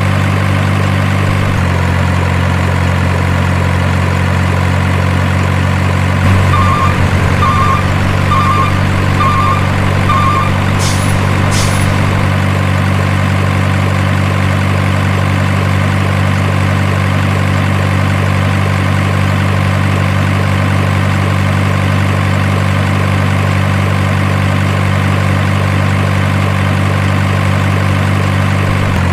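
Heavy truck engine idling sound, steady and low. About a quarter of the way in come five short beeps, roughly one every 0.8 s, and just after them two brief air hisses like an air brake.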